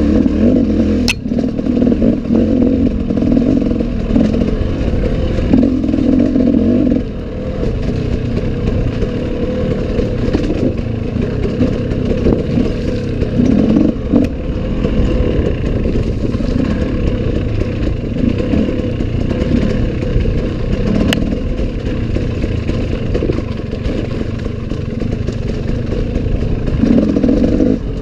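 Enduro dirt bike engine running under varying throttle, rising in repeated revving surges, with a couple of sharp clicks from the bike.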